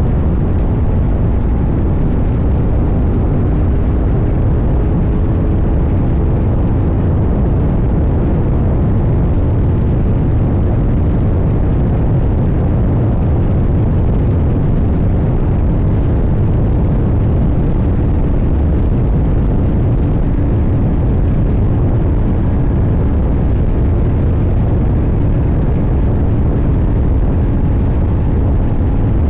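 CFMoto 800NK's parallel-twin engine running at a steady cruise under way, its note faint beneath heavy low wind rumble on the microphone.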